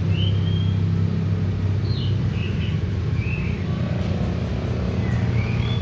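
Oriental magpie-robin (kacer) giving short whistled notes, some sliding, spaced out across a few seconds, over a louder steady low rumble.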